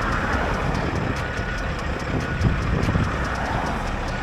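Peterbilt glider truck's Caterpillar C15 diesel engine running steadily as the truck is driven, on test for power loss that the owner puts down to a worn fuel transfer pump not keeping up with fuel demand.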